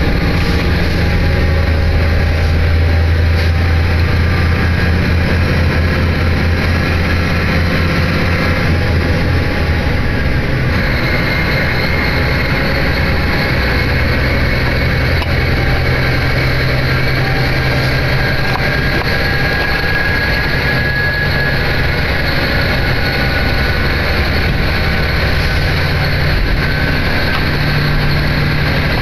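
Diesel train running under way, heard from inside the passenger car: a steady low engine drone with wheel and rail noise. The engine note drops about ten seconds in, and a faint whine rises slowly in pitch through the middle.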